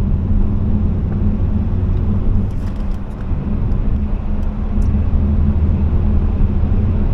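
Steady drone of a Nissan Qashqai's 1.5 dCi K9K diesel engine and road noise, heard from inside the car while cruising at speed, with a low, even hum.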